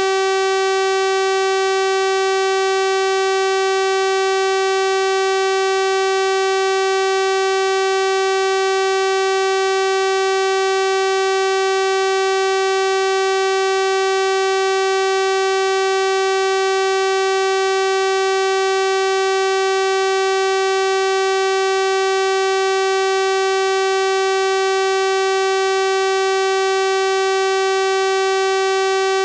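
Steady electronic sawtooth-wave test tone at 384 Hz, a single unchanging buzzy pitch with a full set of overtones.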